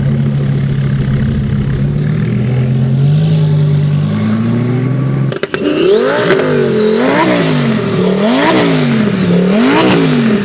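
A car engine running with a steady low note, slightly rising near the middle. Then, after a sudden break, an engine is revved up and down over and over, about once every second and a quarter.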